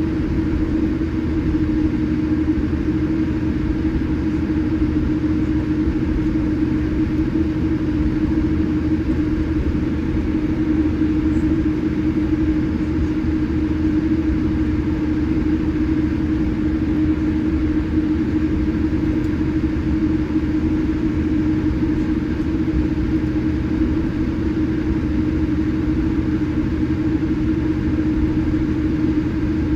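Steady cabin drone inside a Boeing 787-8 on the ground, its engines at idle, with a constant low hum.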